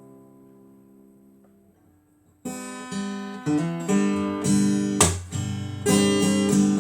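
Acoustic guitar: a strummed chord rings and fades away over about two seconds, then after a brief pause strumming starts again sharply, a run of chords.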